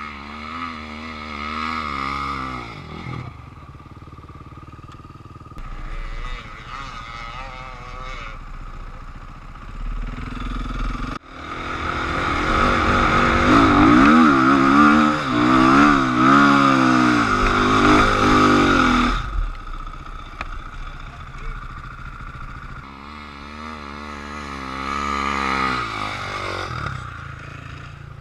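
KTM enduro dirt bike engines revving, their pitch rising and falling quickly with on-off throttle in several separate passes. The loudest stretch starts abruptly in the middle and lasts several seconds.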